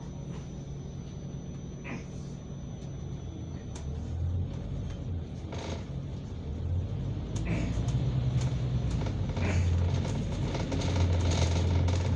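City bus running, heard from inside the cabin: a steady low engine and road rumble that grows louder from about four seconds in, with a few short rattling knocks.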